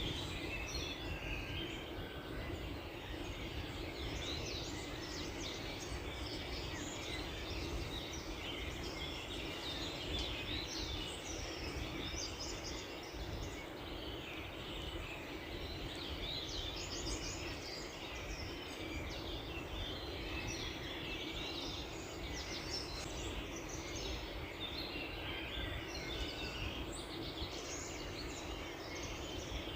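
Many small birds chirping and trilling at once, a dawn chorus of overlapping short calls, over a steady low background rumble.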